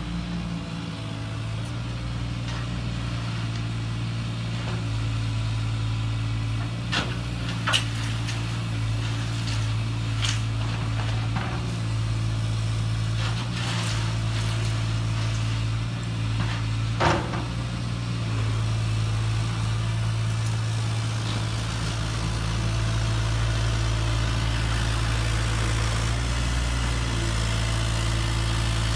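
RC construction models running: a steady, low engine-like hum throughout, with a few sharp clicks and knocks.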